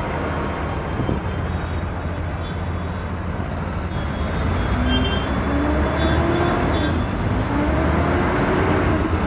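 A city bus's engine and road noise heard from inside the moving bus: a steady low hum under a broad rushing noise, with a faint whine that glides up and down through the second half.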